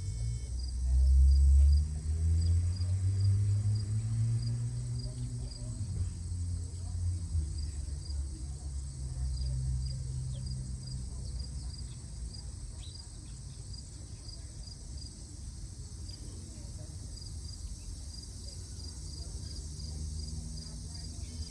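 Insects chirping steadily in a high, evenly pulsing trill, over a low rumble that is loudest in the first few seconds and then fades.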